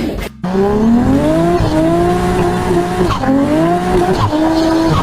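Race car engine accelerating through the gears: its pitch climbs steadily, drops at a gear change about three seconds in, then climbs again.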